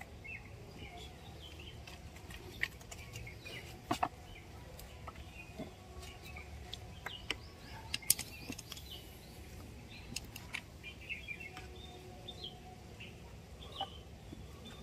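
Birds chirping on and off, with a few sharp clicks, the loudest about eight seconds in, over a low steady rumble.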